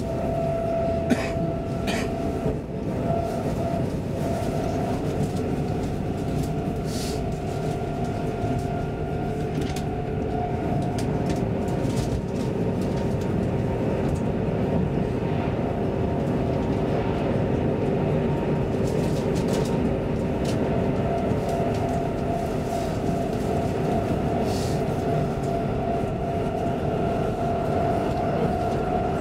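Inside the carriage of an X10 electric commuter train running at steady speed: a continuous rumble with a steady whine and a few scattered clicks.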